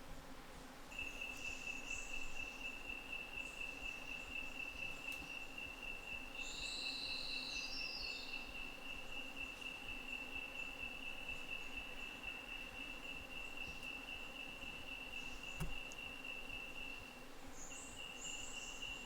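An insect trills continuously on one high, steady pitch, breaking off briefly near the end before starting again. About six seconds in, a short call of quick notes stepping down in pitch sounds above it.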